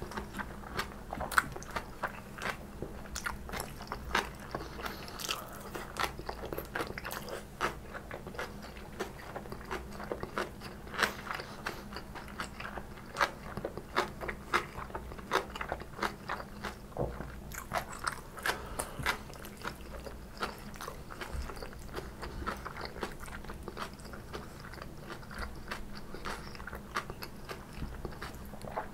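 Close-miked chewing of stir-fried napa cabbage kimchi: many crisp, wet crunches at an uneven pace.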